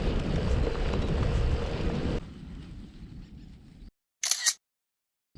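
Rumbling wind noise on the camera microphone that drops away about two seconds in, then silence broken near the end by a brief double click, like a camera button or shutter.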